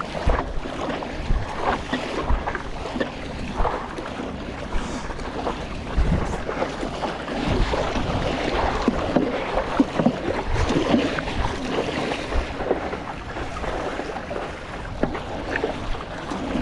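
Water splashing and sloshing around a stand-up paddleboard on the sea, with wind rumbling on the microphone.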